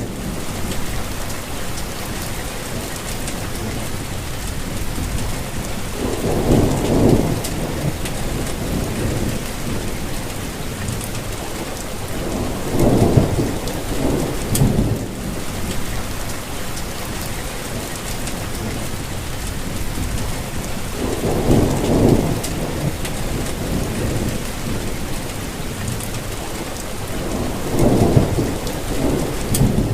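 Steady rainfall hissing, with four low rumbles swelling and fading, each lasting a second or two, spaced several seconds apart.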